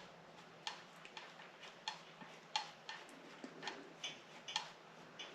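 Light, sharp metal clicks, about eight of them, coming unevenly every half second or so: metal parts and bolts clicking as the rocker arm assembly bolts on a Subaru EJ25 cylinder head are run down finger-tight.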